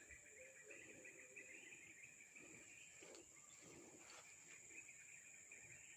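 Faint insects chirring in the background: one steady high-pitched drone and a quicker pulsing trill beneath it. Two or three soft rustles come in the middle.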